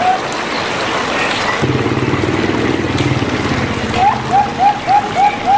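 A bird's short hooked chirps repeated about three times a second stop just after the start and resume about four seconds in, over a steady hiss of rain or running water. In the gap a low pulsing hum rises to the loudest sound for about two seconds.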